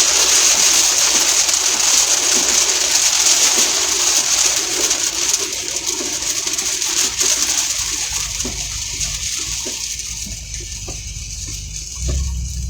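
Rain on the vehicle: a steady hiss of rain that eases over several seconds until only scattered individual drops tap on the roof and glass. A low rumble comes in near the end.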